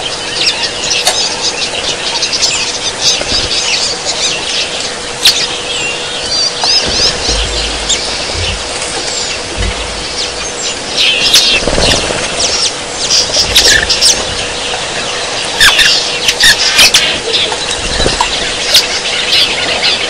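Bee-eaters calling: many short, high chirps and trills overlapping without pause, thickest in the second half. A faint steady hum runs underneath.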